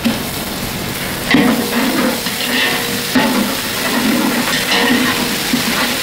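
Chopped onions, curry leaves and ginger-garlic paste sizzling in hot oil in a large steel pot, while a metal ladle scrapes and stirs against the pot in repeated strokes.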